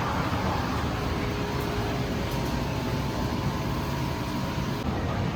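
Honda Dax 125 motorcycle running at a steady pace while riding, its engine hum buried in heavy wind and road rumble. The sound shifts abruptly shortly before the end.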